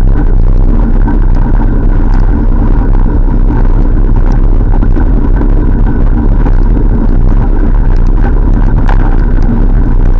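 Steady, loud rumble of wind buffeting the microphone and road noise while riding a bike along a street, with a few faint ticks.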